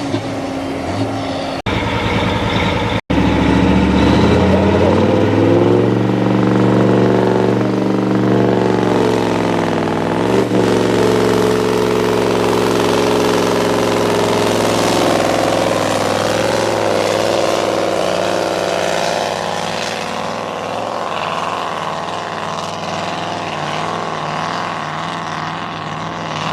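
Tractor engine running hard under full load on a pull, climbing in pitch over a few seconds, dipping once briefly, then holding and slowly dropping off.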